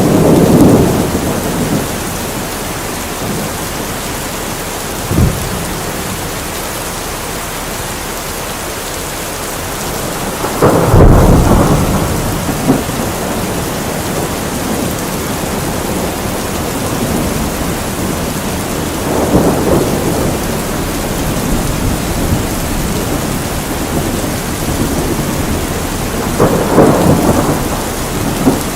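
Steady heavy rain with several rolls of thunder: one fading in the first second or two, a short sharp crack about five seconds in, the loudest rumble about eleven seconds in, and further rolls about twenty seconds in and near the end.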